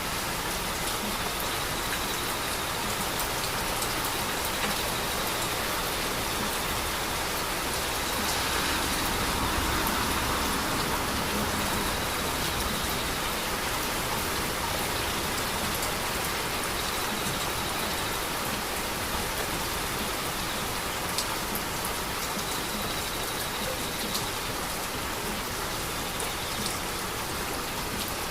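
Steady heavy rain falling and pattering on surfaces, with scattered individual drop ticks; it swells slightly about a third of the way through.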